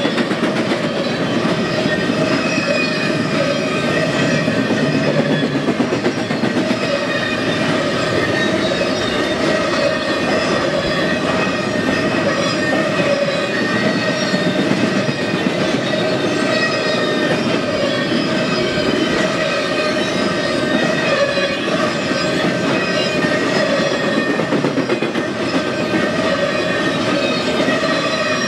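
Empty intermodal spine cars of a freight train rolling steadily past, wheels clattering over the rail joints. A steady ringing tone runs under the clatter.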